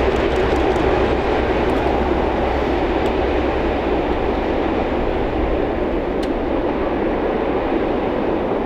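A train running past: a steady rush of wheels and rolling stock on the rails, with a few light wheel clicks near the start, slowly fading.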